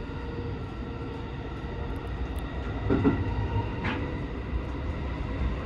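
JR 223 series 2000-subseries electric train heard from inside the driver's cab, running slowly with a steady low rumble of wheels on rail and faint steady whine tones. A brief louder noise comes about three seconds in, with a short rising squeak just under a second later.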